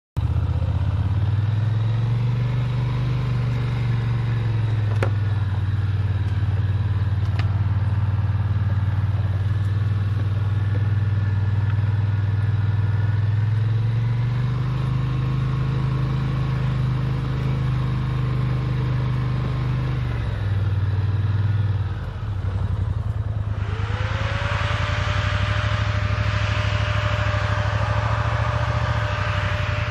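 Motor vehicle engine running with a low drone that shifts in pitch a few times as the revs change. Near the end a whine rises and then holds steady over a hiss.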